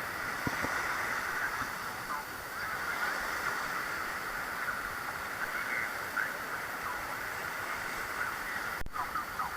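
Steady wash of beach surf, with faint short calls and shouts from people in the distance; the sound drops out for an instant near the end.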